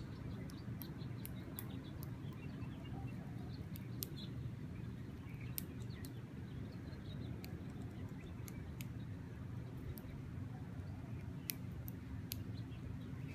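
Birds chirping: short, sharp chirps scattered irregularly, over a steady low background rumble.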